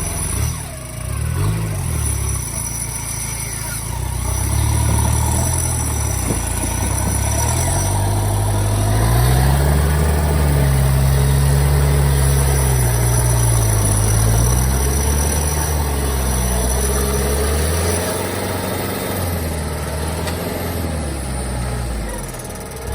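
Off-road vehicle's engine running hard, its pitch rising and falling as it revs up and eases off, loudest in the middle.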